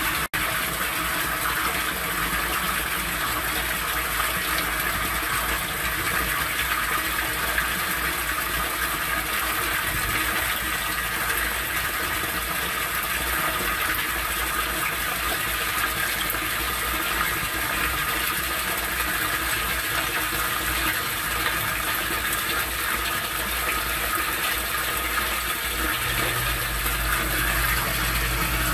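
Steady rush of water in a torrential downpour, rainwater gushing through drainage inlets into an outdoor sump pump basin. Near the end a low steady hum joins in.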